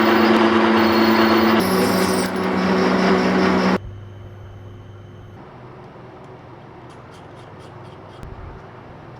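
Metal-cutting machine tool running under cut, a loud steady noise over a motor hum whose pitch shifts about a second and a half in. A little under four seconds in it drops suddenly to a faint steady hum, with a few light ticks near the end.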